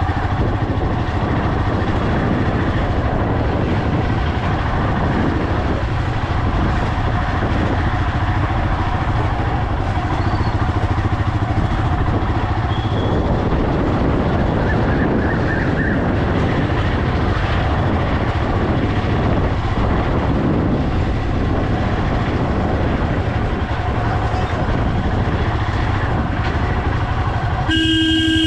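Onboard sound of a motorcycle ride: steady engine and road noise with a heavy wind rumble on the microphone. Near the end a vehicle horn starts sounding in one steady tone.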